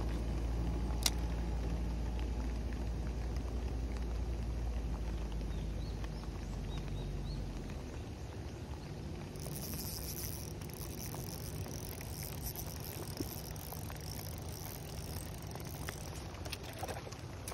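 Steady rain falling on a pond's surface, an even hiss that turns brighter from about nine seconds in. A low rumble lies under it for the first half, and there is a single click about a second in.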